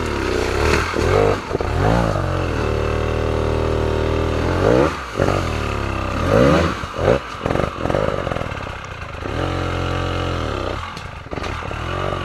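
Trail motorcycle engine revving hard. Quick rises and falls in pitch alternate with two longer stretches held at high revs, one early and one in the second half.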